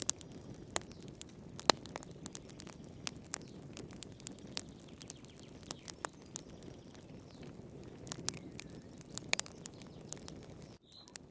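Wood fire in a fireplace crackling: irregular sharp pops and snaps over a low, steady rustle of the flames. The sound cuts out for a split second near the end.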